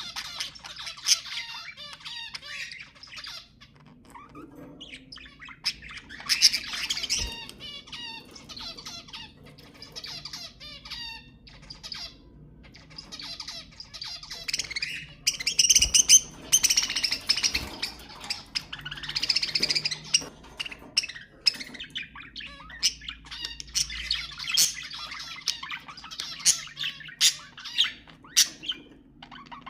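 A flock of budgerigars chattering and warbling, with rapid chirps and squawks, loudest and busiest a little past halfway.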